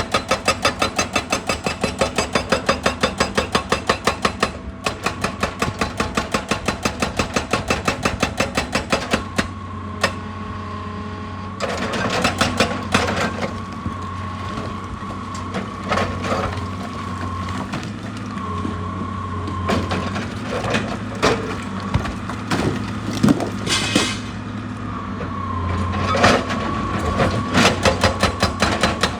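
Excavator-mounted hydraulic rock breaker hammering rock in a fast, even run of blows. About nine seconds in the hammering stops, leaving the excavator's engine running with a steady hydraulic whine and scattered knocks and scrapes of rock. Near the end the hammering starts again.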